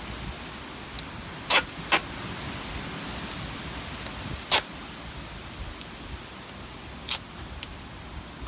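Four short, sharp rips of duct tape being pulled off the roll, about 1.5, 2, 4.5 and 7 seconds in, over a steady background hiss.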